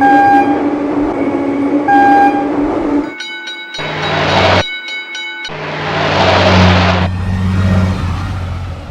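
Train sound effects over rhythmic background music: a train horn blows twice in the first few seconds, then come two bursts of hissing with a low rumble under them.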